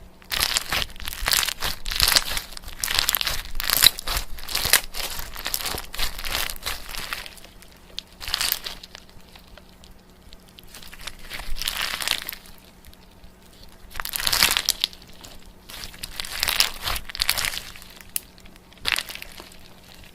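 Close-up crinkling and crumpling handled in irregular bursts of a second or two with short pauses between, over a faint steady low hum.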